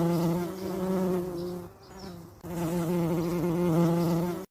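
Steady insect-like 'zzz' buzz, as of a bee in flight, held for nearly two seconds, breaking off briefly, then buzzing again for about two more seconds.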